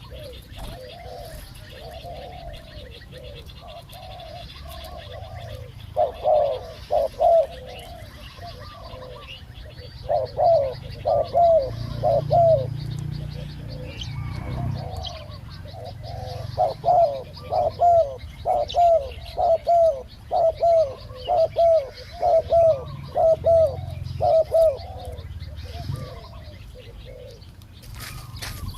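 Spotted doves cooing in repeated phrases of short coos. The calls are quieter at first and grow loud from about six seconds in. This is decoy-and-wild-dove countercalling during a dove trapping contest.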